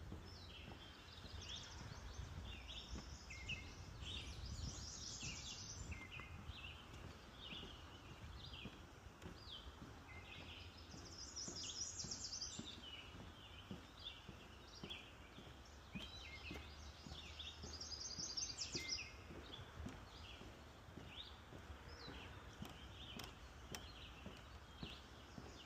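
Several songbirds singing, with chirps and short phrases throughout and a high trill that comes back about every seven seconds. A faint low rumble sits underneath.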